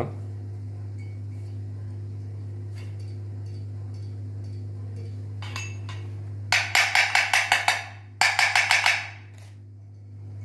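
Two quick runs of light hammer taps, about eight and then about six, seating a new ball bearing in a ceiling fan's metal housing, over a steady low hum.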